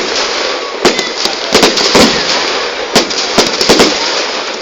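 Fireworks exploding: a dozen or so sharp bangs in quick clusters over a steady hiss.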